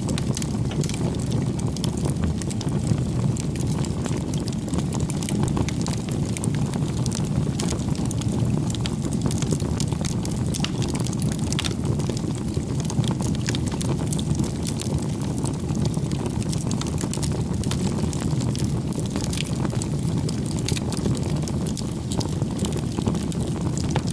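Crackling wood fire: a steady low rumble of burning with frequent small pops and snaps scattered throughout.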